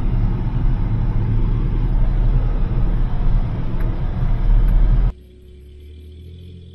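Motor vehicle running, a steady low rumble of engine and road noise that cuts off suddenly about five seconds in.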